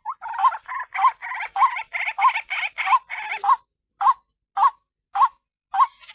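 White-breasted waterhen calling: a short rising note repeated a little under twice a second. For about the first three seconds it runs into a faster, harsher stretch of croaking notes before settling back to the single repeated note.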